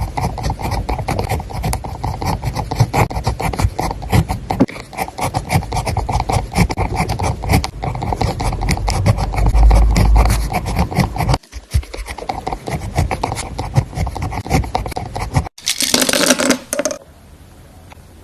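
Pen scratching steadily on paper as someone writes, a dense run of fine scratchy strokes with a couple of brief breaks. A short louder burst comes near the end, then only faint room noise.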